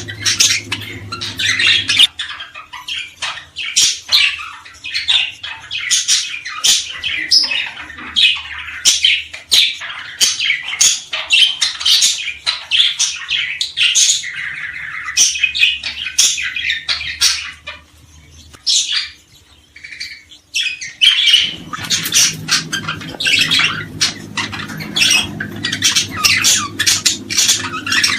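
Small cage birds chirping and squawking in a fast, dense, loud stream of calls, with a short lull about 18 seconds in. A low steady hum sits underneath at the start, drops out after about 2 seconds and returns about 21 seconds in.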